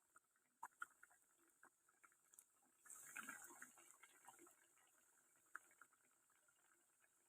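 Near silence, with faint scattered clicks and a soft rustle about three seconds in.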